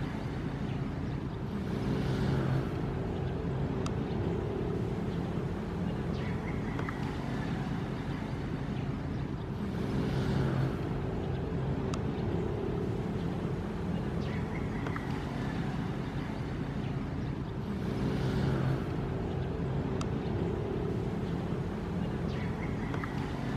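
Ocean waves breaking and washing in about every eight seconds, three times, over a steady low rumble with a faint hum.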